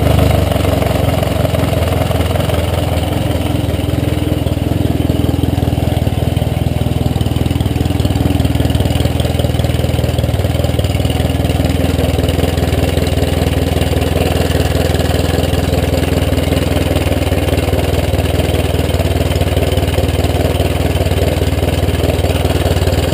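Bored-out 800 cc Nimbus inline four-cylinder motorcycle engine idling steadily, warming up after a cold start without a choke.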